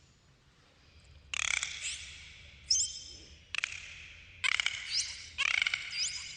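Dolphins calling: several buzzy, squawking pulse calls and short rising whistles, one after another.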